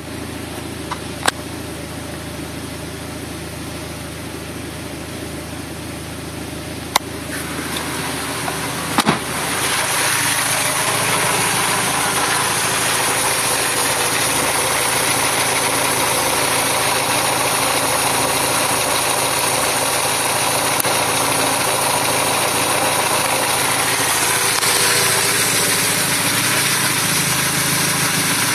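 Mazda MX-5 Mk2's 1.8-litre four-cylinder engine running at idle, with a few sharp clicks. About eight to ten seconds in, the engine gets louder and fuller, then holds steady. The engine cannot idle without throttle because its mass air flow sensor is missing its hot wire.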